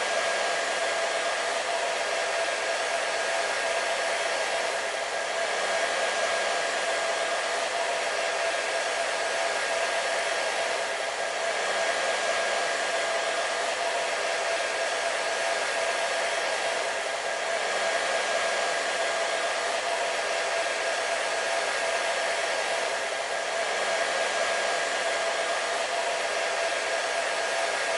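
Hair dryer running continuously: a steady rushing of air with a constant motor whine underneath, rising and falling slightly in loudness about every six seconds.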